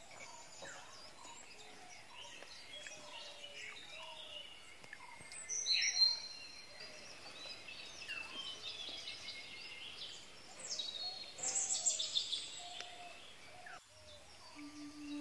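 Several birds chirping and calling, many short overlapping notes, with busier bursts about six seconds and twelve seconds in.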